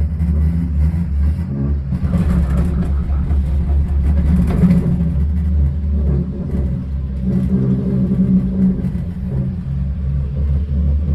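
Steady low rumble and hum of a moving cable-car cabin, swelling louder for a couple of seconds in the middle.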